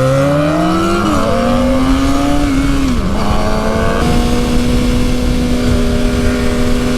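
Suzuki GSX-R750's inline-four engine pulling up through the gears under acceleration, its pitch rising and dropping at two upshifts, then holding a steady note at cruising speed, over a low wind rumble.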